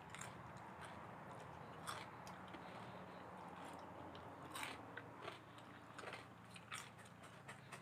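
Close-up chewing of grilled beef, with scattered short wet mouth clicks every second or so over a faint steady low hum.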